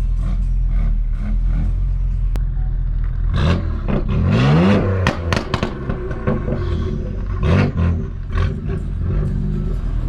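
Chevrolet Camaro ZL1's supercharged V8 running with a steady low drone, then revving with a rising pitch about three and a half seconds in, and running on unevenly with a few short clattering knocks.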